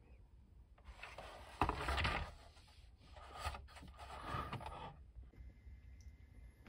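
Handling noise from a plastic toy tank: plastic parts scraping and rubbing, with a sharp knock about a second and a half in and softer rustles after it.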